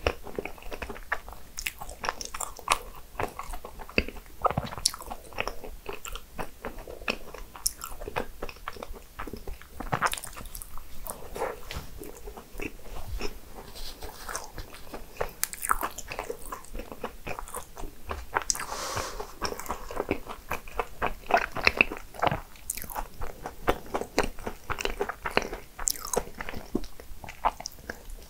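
Close-miked mouth sounds of a person biting and chewing cupcakes and cream puffs: a dense, irregular run of short clicks.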